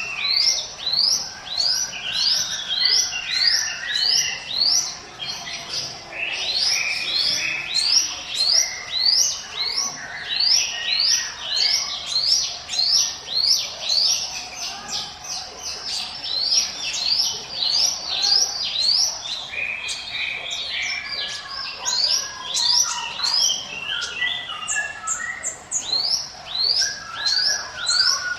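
Ciblek gunung singing its 'ngiwit wit' song: a fast, unbroken run of short rising whistled notes, about two to three a second, with lower chattering notes in between.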